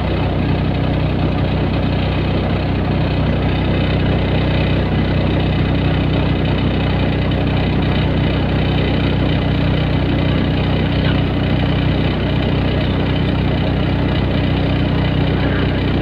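Hyundai excavator's diesel engine running steadily at low revs.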